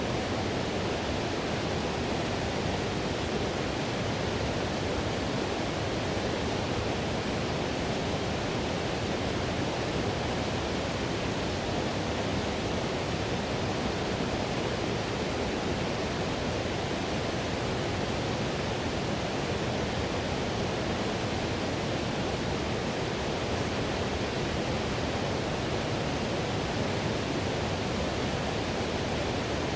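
Whitewater river rushing over rapids: a steady, unbroken roar of water.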